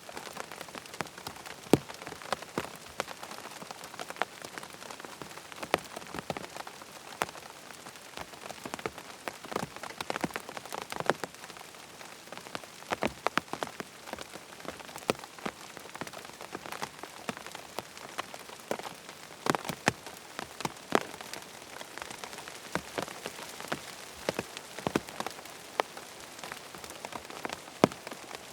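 Rain falling on a tent: a steady hiss of rain with many separate drops tapping irregularly on the fabric.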